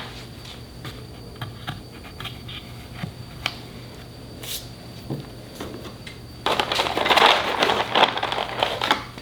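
Hands working wood pieces and tools at a workbench: scattered light clicks and taps, then, a little after six seconds in, about two and a half seconds of louder scraping and crackling.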